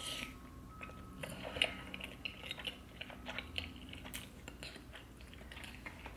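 Close-miked chewing and mouth smacking of a person eating seafood boil, with many short, irregular wet clicks.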